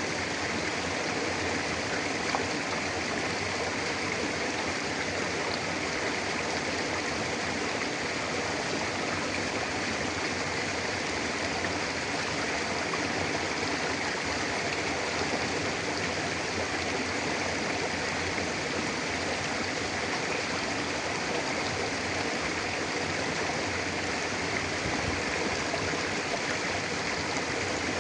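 Mountain river flowing steadily over rocks, a constant rushing of water.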